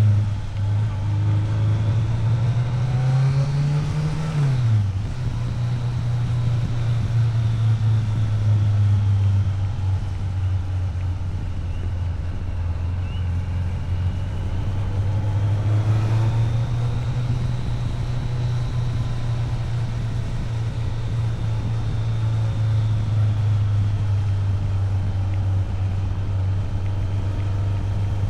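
Motorcycle engine running under way, accelerating for a few seconds with rising pitch, then dropping sharply at a gear change about four and a half seconds in, before settling into a steady cruise.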